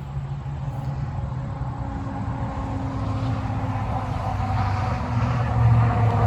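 A motor vehicle's engine running with a steady low hum, growing gradually louder and loudest near the end.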